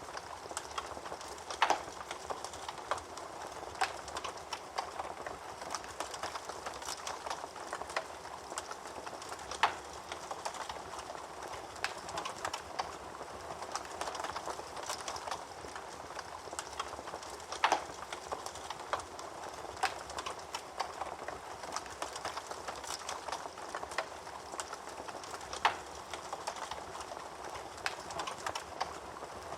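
Wood fire burning in a fireplace: a steady hiss of flames with frequent small crackles and snaps, and a few louder pops spaced several seconds apart.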